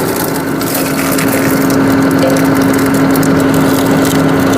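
Tractor engine running steadily at about 1400 rpm, driving a hydraulic log splitter, with a steady hiss and scattered crackles over its hum.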